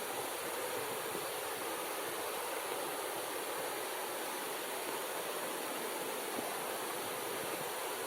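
Steady rushing background noise, even throughout, with no bird calls or other distinct sounds standing out.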